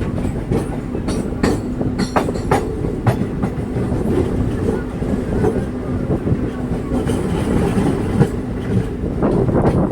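DEMU express train in motion, heard from onboard: a steady rumble of the coach with wheels clicking over rail joints at irregular intervals.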